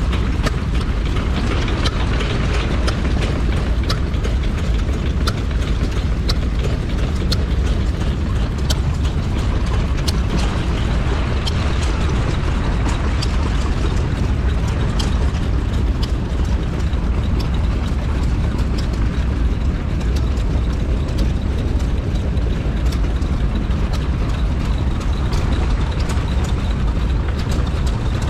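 Vintage stationary engine running steadily, with many sharp ticks and clicks over a heavy low rumble.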